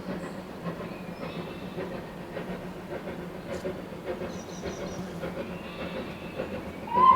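Steam-hauled train running, a steady rumble with its wheels clicking over the rail joints; near the end a steam locomotive's whistle starts, one loud steady tone that slides up slightly as it begins.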